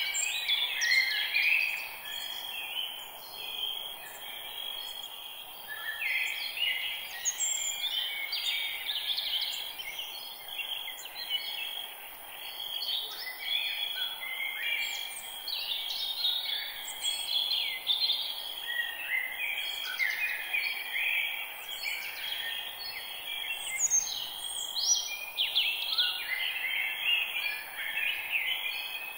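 A chorus of birds chirping and singing over one another, quick overlapping calls going on without a break, over a steady high hiss.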